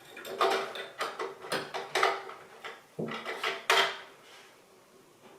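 Plastic shower-head fittings clicking and knocking as they are handled and hand-tightened onto the shower arm, a run of sharp knocks that stops about four seconds in.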